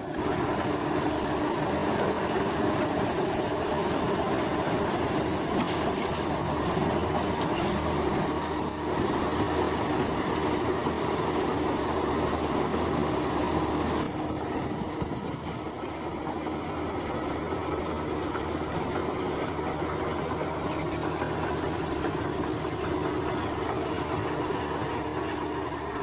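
Crawler bulldozer working: its diesel engine runs steadily while the steel tracks squeal and clank. The sound drops a little about halfway through.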